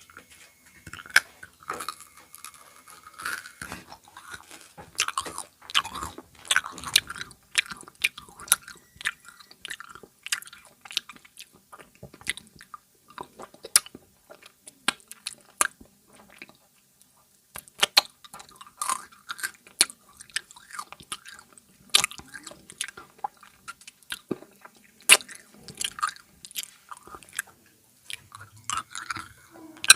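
Close-miked biting and chewing of a crunchy snack, dense crackling crunches with a brief pause about halfway through.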